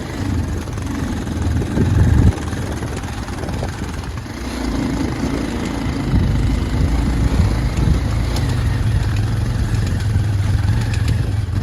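Motorcycle engine running steadily on a rough, muddy road, with a louder surge about two seconds in.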